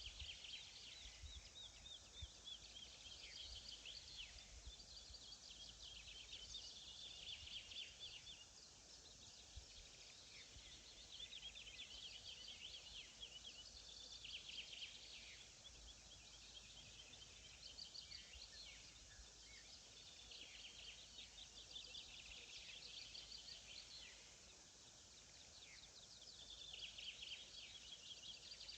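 Songbirds singing: a faint, busy chorus of quick high chirps and trilled phrases repeating every second or two, over a soft low rumble.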